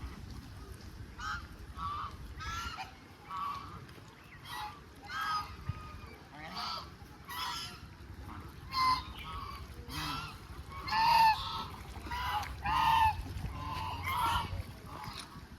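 Waterfowl calling with a string of short honking calls, roughly one a second, growing louder around the last third.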